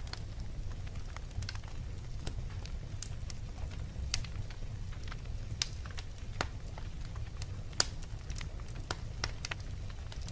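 Wood fire burning in a fireplace, crackling and popping at irregular intervals over a low steady rumble of the flames, with one sharper pop near the end.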